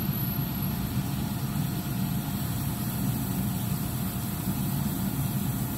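Steady low hum of running air-conditioning equipment, even and unbroken.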